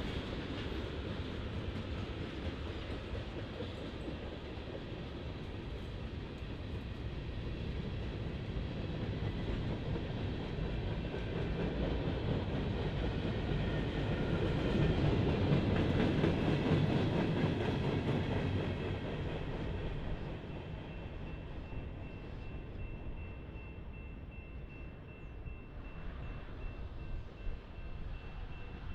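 Freight train rolling past, its cars' wheels rumbling and clattering over the rails, growing louder toward the middle and then fading as it recedes, with a thin steady high tone in the later part.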